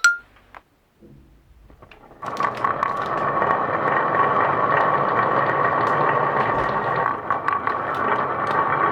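The last note of a rising run of chime notes at the very start, then after a short lull marbles rolling along a marble-run track. From about two seconds in, a dense, steady rolling rattle with a ringing tone and scattered clicks.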